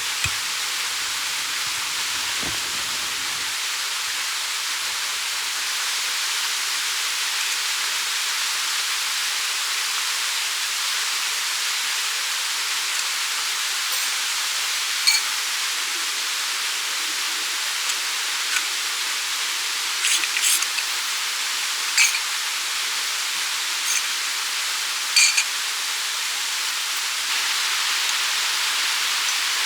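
Mountain stream flowing: a steady rushing hiss of water, with a few short sharp clicks in the second half.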